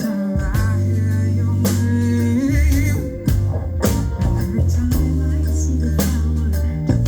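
A rock band playing live: held bass notes under guitar, with drum-kit hits falling about once a second.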